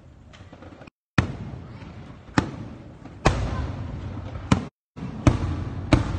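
Fireworks: six sharp bangs of aerial shells bursting, roughly one a second, each followed by a low rumbling echo. The sound cuts out briefly twice.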